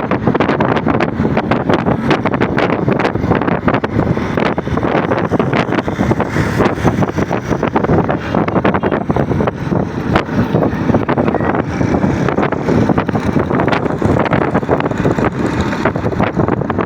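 Loud, continuous wind buffeting the microphone, rumbling and crackling without letup.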